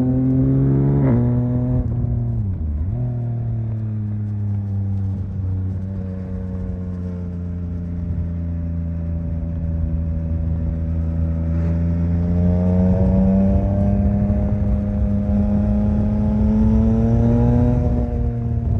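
Yamaha MT-09's 890 cc inline three-cylinder engine under way. The revs drop sharply a couple of times early on, hold steady at cruise, then climb gradually before falling back near the end.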